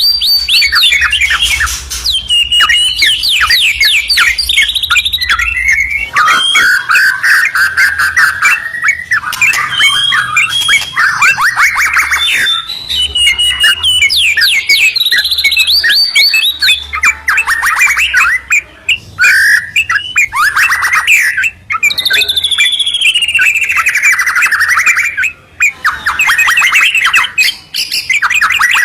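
White-rumped shama and yellow-vented bulbul singing loudly in an unbroken, varied duet: fast runs of rapid repeated notes, clear whistled phrases and falling glides, with only a few brief gaps.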